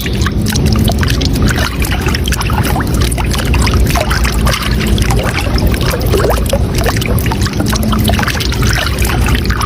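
Flowing, splashing water with a steady low rumble and many small irregular splashes throughout.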